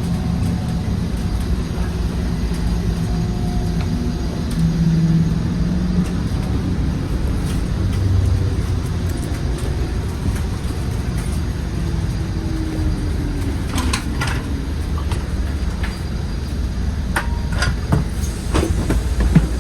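Scania Citywide city bus with a 230 hp compressed-natural-gas engine, driving with a steady low engine and road rumble. The engine note falls away about two-thirds of the way through, and a few sharp clicks and rattles come near the end.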